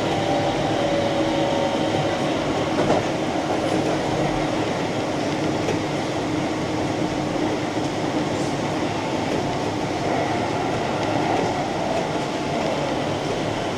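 Keihan Main Line electric train running between stations: a steady rumble of wheels on track, with humming tones that slowly fall in pitch. There is one louder knock about three seconds in.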